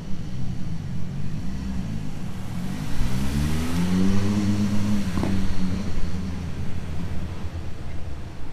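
A car engine picks up revs over a couple of seconds, holds, then eases off about six seconds in, over a steady low rumble.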